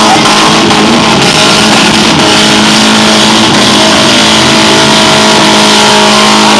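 Several demolition derby cars' engines revving hard together, loud and unbroken, some held at a steady high pitch for seconds.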